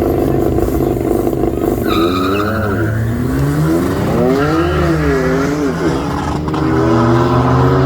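Car engine held at high revs, then revving up and down repeatedly as the tyres squeal briefly, then climbing steadily in pitch as the car accelerates, typical of a burnout or donut run.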